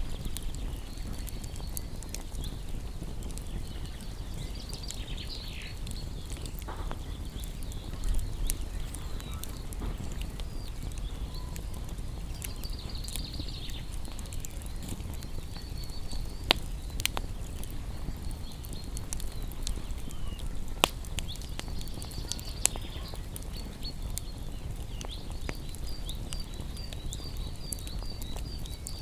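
Wood fire crackling over a low rumble, with scattered pops and a few loud sharp snaps in the second half. Small songbirds chirp in high bursts several times, with a quick run of repeated notes near the end.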